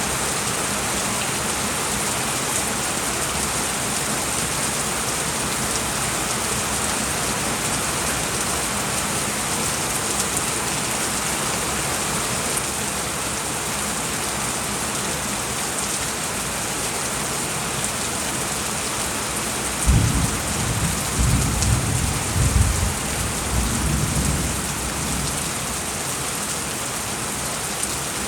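Steady rain falling in a continuous hiss, with a low rumble of thunder that swells and fades several times about two-thirds of the way through.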